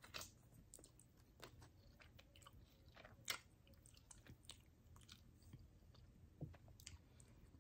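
Faint chewing of a fried chicken wing: scattered soft mouth clicks, with one sharper click about three seconds in.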